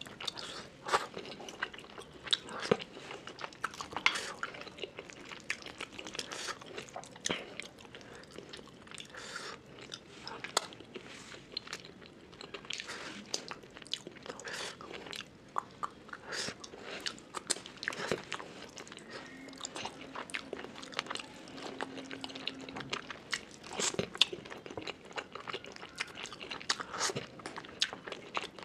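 Close-miked eating of fish curry with rice: irregular crisp crunches and wet chewing as fried fish is bitten and chewed, with many sharp crunches.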